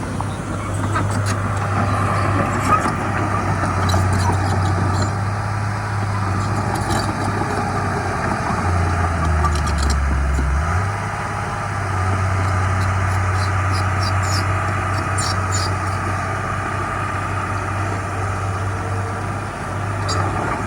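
Heavy diesel engine of earthmoving machinery running steadily, its pitch dipping lower for a couple of seconds near the middle before it returns. Scattered light clinks and clanks are heard over it.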